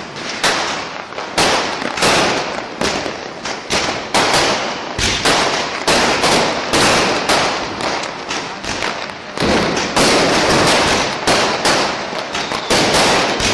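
Firecrackers going off one after another, about two sharp bangs a second, each trailing off briefly before the next.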